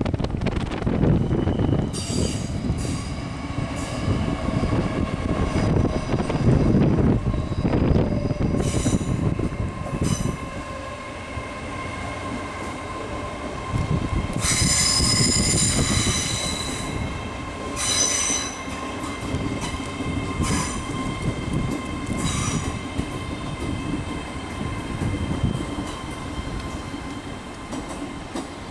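GWR passenger train moving through the platform with a low rumble and high-pitched squealing from its wheels. The rumble is heaviest in the first ten seconds, and the squeal is loudest about halfway through, returning briefly a second later.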